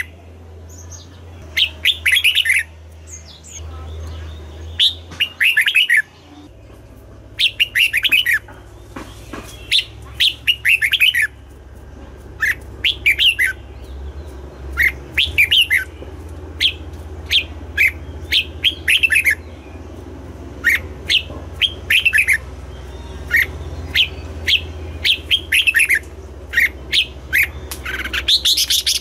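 Red-whiskered bulbul singing: short, quick phrases of sliding whistled notes, repeated every second or two.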